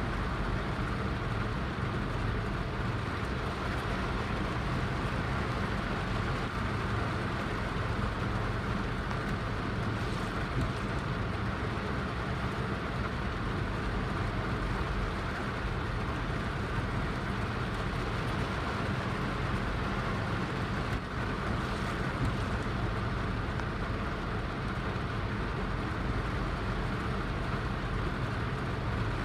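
Heavy rain falling steadily: an even hiss with a low rumble beneath it.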